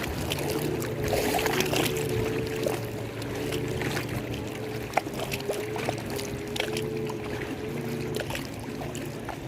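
Lake water splashing and lapping, with many small splashes and clicks, over a steady motor hum.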